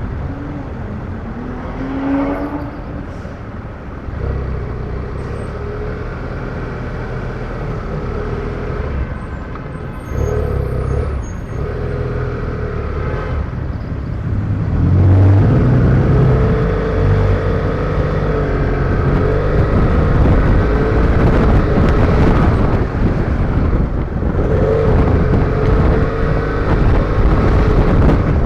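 BMW F650GS motorcycle engine running in traffic, heard from a helmet-mounted camera, its pitch wavering with the throttle. About halfway through it picks up and gets louder, and stays that way.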